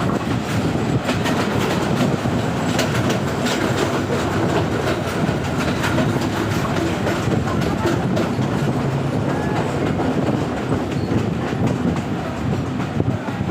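Train running along the track: a steady rumble with the clickety-clack of wheels passing over rail joints.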